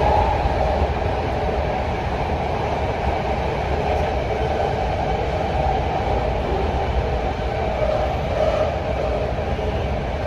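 BART rapid-transit train running, a steady rumble with a hum in the middle range.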